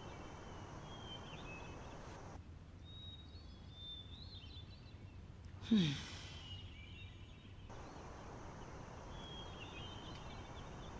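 A person sighing once, a short falling breath about six seconds in, over quiet outdoor ambience with faint bird chirps.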